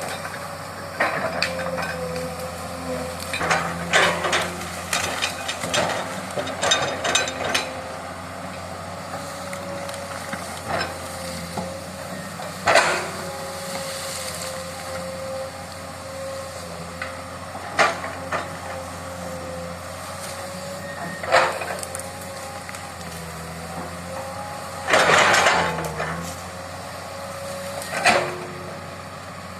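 Hydraulic excavator travelling on its steel tracks: a steady engine drone with irregular sharp metallic clanks and knocks from the tracks and undercarriage, one longer harsh burst near the end.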